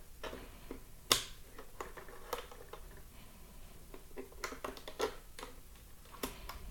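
Irregular sharp clicks and light knocks, about a dozen, from a Turnigy 9X radio-control transmitter being handled; the loudest is a sharp click about a second in.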